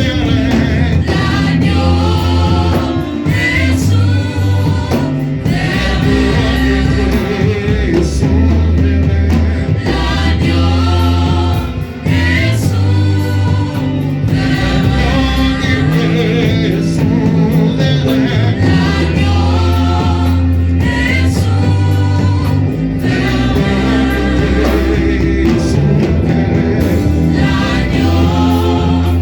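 Gospel worship song from a church choir and band: several voices singing together over sustained bass notes and a drum beat.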